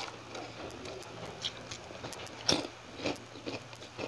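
Close-up chewing of fried milkfish and rice: wet mouth clicks and crisp crunches, with a few sharper crunches in the second half. A steady hiss of heavy rain runs behind.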